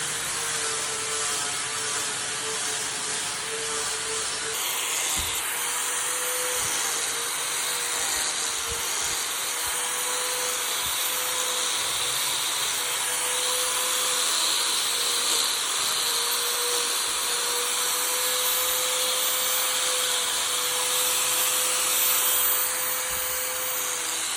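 Power tool running steadily on wood: a held, slightly wavering motor tone under a continuous hissing, grinding noise of the wood being worked.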